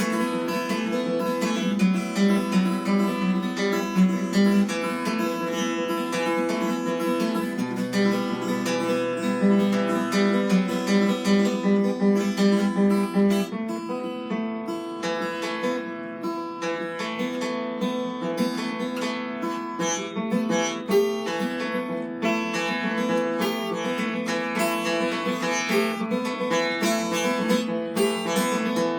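Acoustic plucked string instrument playing a rhythmic melody with strummed chords.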